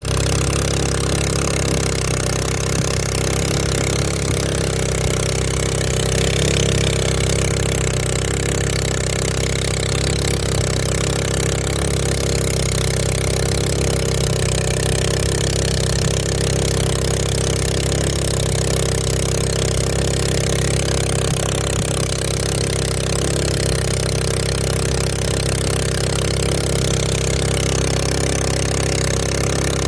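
Honda GX200 single-cylinder four-stroke engine on a sampan boat running steadily at a constant speed, pushing the boat along.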